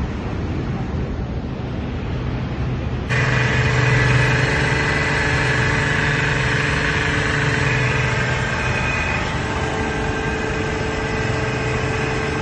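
A Shakti 6 HP pressure washer running steadily with a low hum. About three seconds in it abruptly gets louder, adding a steady whine and a high hiss that hold to near the end.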